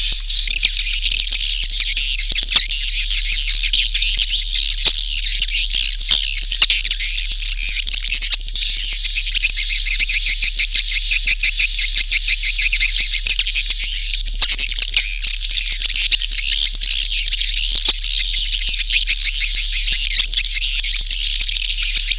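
Recorded swiftlet calls: a dense, continuous colony chatter of high twittering chirps and sharp clicks, the lure sound played in swiftlet houses to draw birds in to roost and nest. A steady low hum runs underneath.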